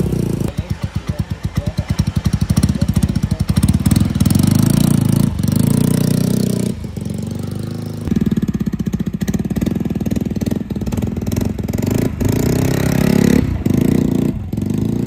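125 cc four-stroke motorcycle engine running and being given gentle throttle, its note rising and easing a few times with short drops in between.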